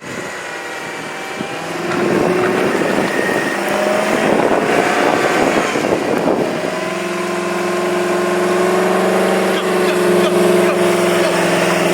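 A vehicle engine running at a steady pitch, with a louder rushing noise laid over it from about two seconds in until about six and a half seconds.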